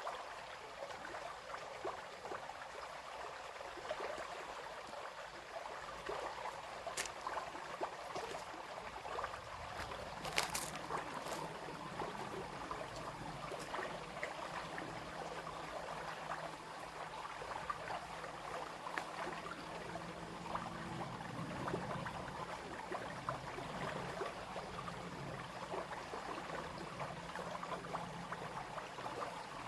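Small brook running and babbling steadily, with a couple of brief sharp ticks about seven and ten seconds in.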